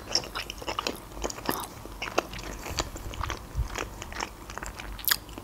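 A mouthful of sushi being chewed: a quick, irregular run of small mouth clicks.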